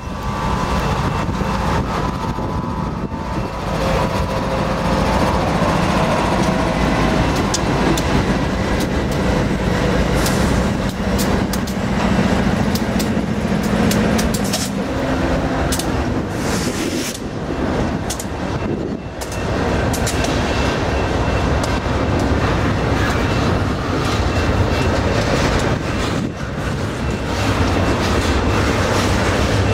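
Union Pacific freight train passing close by: the diesel locomotives' engines drone for about the first half, then give way to double-stack container well cars rolling past with a low rumble and sharp clacks of wheels over the rails.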